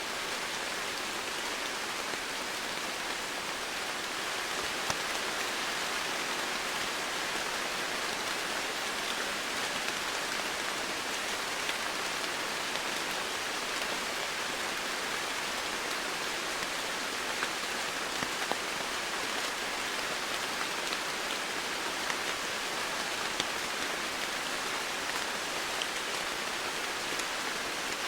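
Steady rainfall, a dense even hiss of drops with occasional sharper individual drop ticks.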